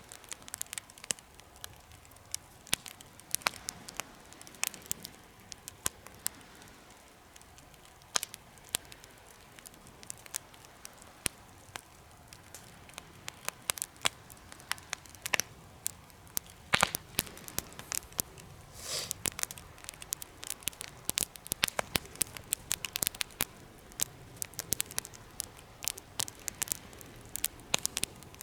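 Wood fire crackling in a homemade fire pit: irregular sharp pops and snaps over a low background, with a brief hiss about two-thirds of the way through.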